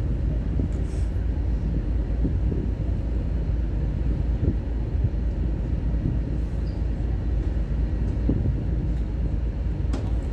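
Steady low rumbling noise, even in loudness throughout.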